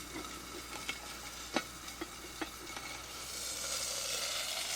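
Pork chop sizzling in a cast-iron skillet over a campfire, with a few sharp pops early on. The sizzle swells louder from a little past the middle.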